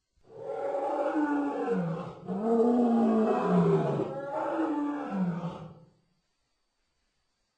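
Saber-toothed cat (Smilodon) creature sound effect: a deep big-cat roar about six seconds long, in three drawn-out phrases that each slide down in pitch.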